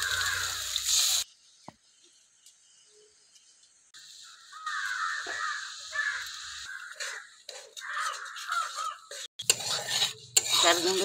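A run of bird calls, repeated over several seconds and starting about four seconds in.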